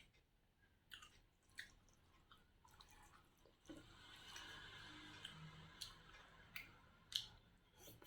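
A person chewing a mouthful of rice and curry close to the microphone, with sharp wet mouth clicks and smacks scattered throughout and a few seconds of steadier chewing noise in the middle.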